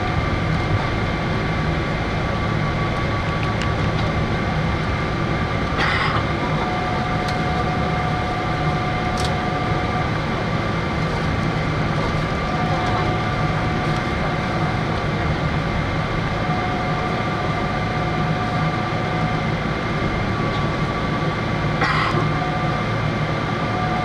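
Boeing 777-300 cabin noise before takeoff: a steady hum and rush from the engines and air conditioning, with a steady whine over it. Two brief knocks or rattles, one about a quarter of the way in and one near the end.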